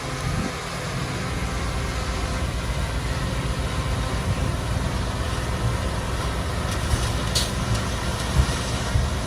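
Heavy diesel machinery engine running steadily with a low rumble. A short hiss comes about seven seconds in, and a couple of sharp knocks near the end.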